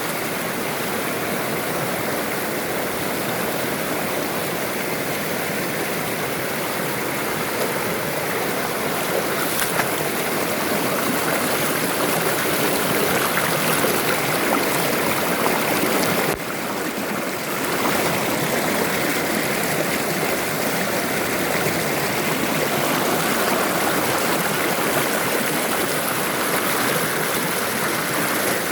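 Rushing water of a waterfall, a steady loud rush that briefly drops about halfway through.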